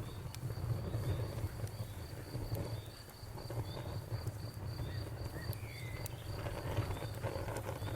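Crickets chirping in a steady, evenly pulsed rhythm over a crackling bonfire, with scattered sharp pops and a low rumble from the fire.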